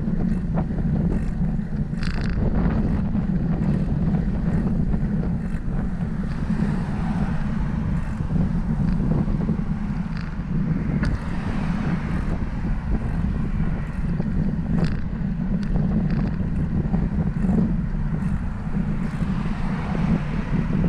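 Wind buffeting the microphone of a camera riding on a moving bicycle: a steady low rumble, with scattered light clicks.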